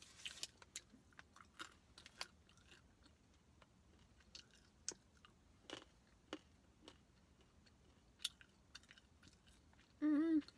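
Close-up chewing and crunching of nuts, with scattered small crackles. There is a brief hummed voice sound near the end.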